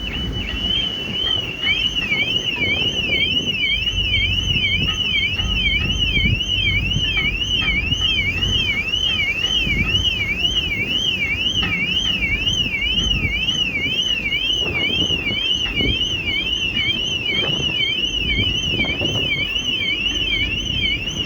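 Ferry's electronic alarm warbling, a high tone sweeping up and down about three times a second without a break, over the low rumble of the vessel and wind on the microphone.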